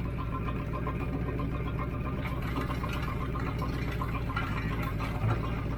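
Volvo Penta sterndrive boat engine idling steadily on the trailer, cooled by a garden-hose water supply to the leg, with a small thump about five seconds in.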